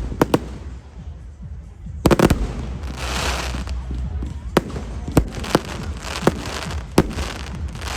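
Fireworks display: a run of sharp aerial shell bursts, a quick cluster about two seconds in and then single bangs every half second or so, with crackling between them.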